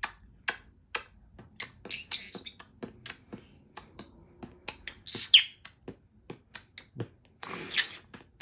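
Pet conure beatboxing: a run of sharp clicks and pops, several a second, broken by short hissing bursts about two seconds in, a louder one about five seconds in, and another near the end.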